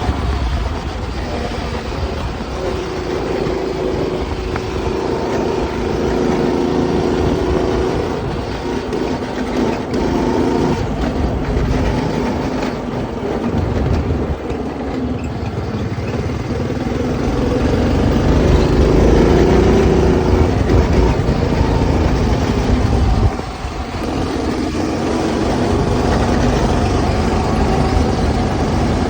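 Go-kart's small engine, fitted with a new 30mm carburetor, running while the kart is driven, its pitch rising and falling with the throttle and dropping briefly about 23 seconds in. Wind rumbles on the microphone.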